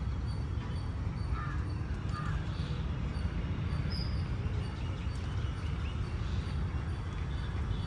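Crows cawing a few times in the first few seconds over a steady low rumble. A faint high chirp repeats about twice a second throughout.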